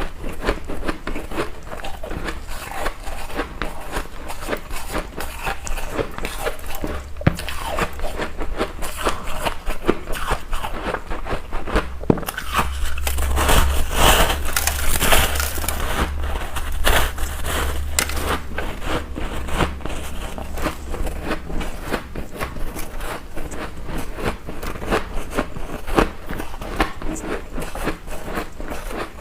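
Close-miked ice being bitten and chewed: dense, irregular crunching and cracking of ice cubes between the teeth. The crunching gets louder and denser about halfway through for a few seconds.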